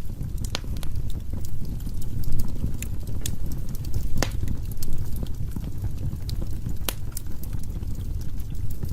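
Wood fire burning in a fireplace: a steady low rumble of flames with irregular sharp crackles and pops, the strongest pop about four seconds in.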